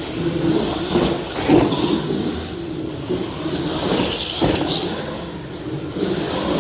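Radio-controlled monster trucks racing: a steady whir of motors and tyres on the track, with a few short knocks about one and a half and four and a half seconds in.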